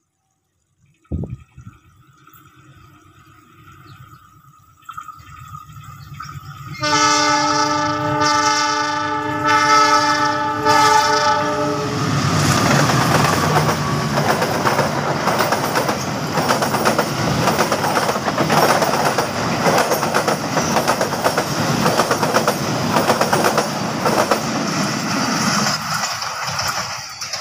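Diesel locomotive horn sounding a loud multi-tone blast for about five seconds as a passenger train approaches, a greeting from the driver to trackside watchers. Then the locomotive and coaches pass close by with a loud rumble and wheels clacking over the rails, fading near the end.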